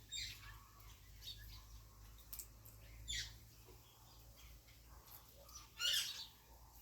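African grey parrot giving a few short chirps and calls, with a louder, longer call near the end.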